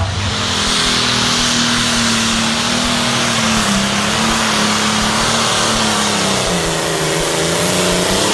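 A competition pulling vehicle's engine running hard at high revs with a dense, hissing roar. Its pitch wavers and dips somewhat about two-thirds of the way through, then comes back up near the end.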